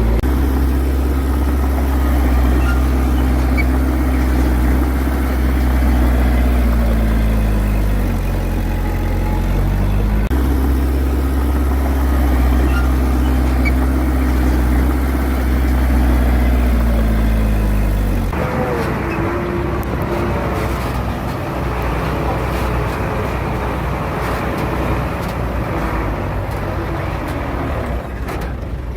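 Heavy diesel engine of earthmoving machinery running hard, its pitch sagging and recovering twice as the load changes. About 18 seconds in, the sound switches abruptly to a rougher, noisier engine sound.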